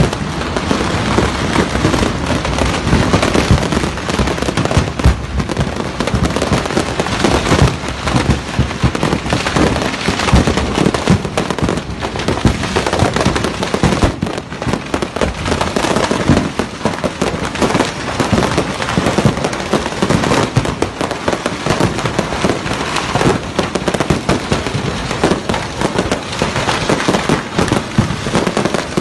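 A fire setting off a fireworks business's stock: a continuous barrage of fireworks going off at once. Dense crackling and popping runs without a break, with frequent louder bangs and aerial shell bursts.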